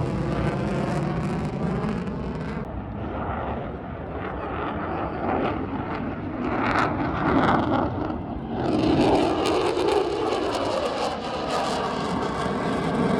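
Fixed-wing aircraft flying past, its engine noise a steady rush that dips and swells again.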